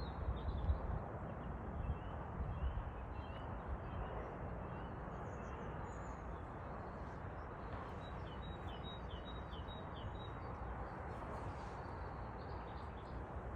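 Steady outdoor noise with a low rumble, like wind on the microphone, and faint small-bird chirps: scattered notes in the first few seconds and a quick run of about six short chirps about eight seconds in.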